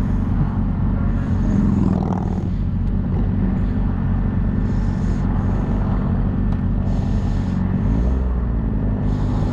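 Motorcycle engine running steadily under way, with wind noise over the rider's microphone; the engine note changes about eight seconds in.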